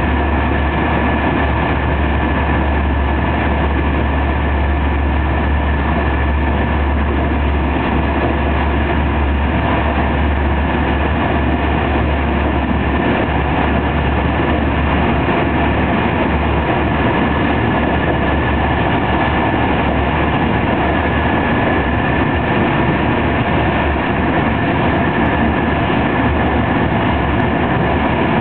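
TER 200 regional express train running steadily at speed, heard from inside a passenger coach: a constant loud rumble of wheels on rail with a deep hum and a thin steady high tone over it.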